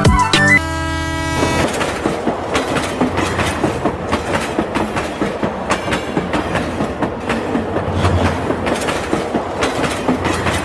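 Train sound effect: a short horn blast about half a second in, then a train running with a steady clickety-clack of wheels over rail joints.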